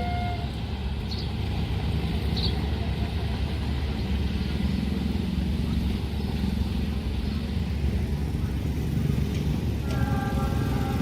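Steady low rumble of road traffic, cars and motorbikes, moving across a railway level crossing. The crossing's two-tone alarm cuts off about half a second in, and a new steady multi-pitched tone starts near the end.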